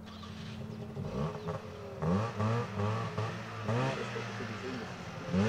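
Rally car engine accelerating hard, its pitch climbing and dropping again and again from about two seconds in as it revs up and shifts gears.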